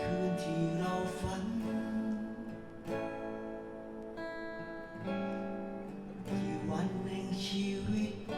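Instrumental music led by strummed acoustic guitar, with chords changing every two to three seconds.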